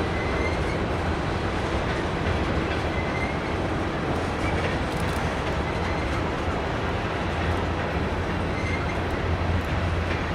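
Freight train of covered hopper cars rolling past at steady speed: a continuous rumble of steel wheels on rail, with a few faint, short high squeaks now and then.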